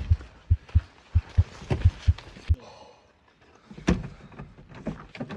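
A fast, even run of low thuds, about three a second, that stops about two and a half seconds in. A single sharp knock follows about four seconds in.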